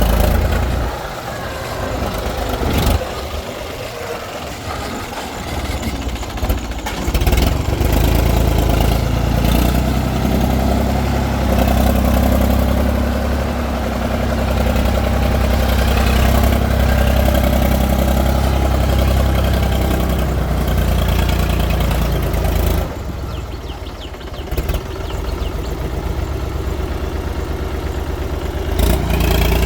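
Diesel engine of heavy machinery running, its note strengthening about seven seconds in and holding steady, then easing off about 23 seconds in before picking up again.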